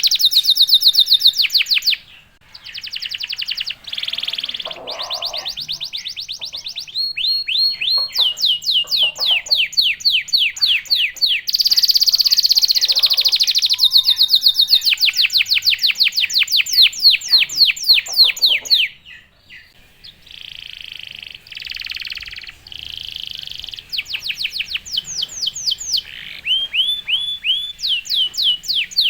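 Domestic canary singing a long, fast song of rolls and trills: runs of rapid, repeated down-slurred notes, each phrase changing pace and pitch, with short breaks about two seconds in and again about two-thirds of the way through.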